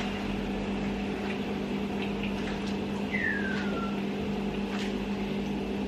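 Dumplings frying in a pot of oil with a faint steady sizzle, under a steady low hum. A single short falling whistle comes about three seconds in.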